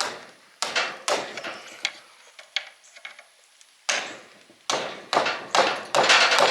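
Hammer blows on a large punch, driving against the copper windings in an electric motor's stator to knock the coils out. About a dozen sharp metallic strikes, each ringing briefly, with a pause of about a second in the middle and quicker blows near the end.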